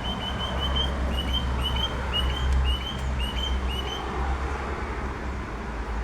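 Small bird chirping repeatedly, short rising-then-falling chirps about two a second, stopping about four seconds in, over a steady low rumble.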